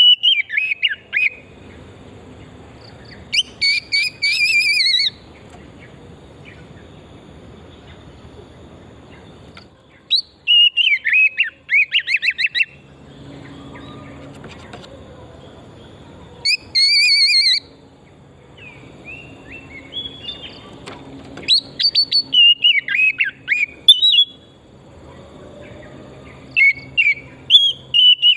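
Oriental magpie-robin (kacer) singing loud, varied whistled phrases in short bursts, each followed by a pause of a few seconds. Some of the phrases are rapid quavering trills.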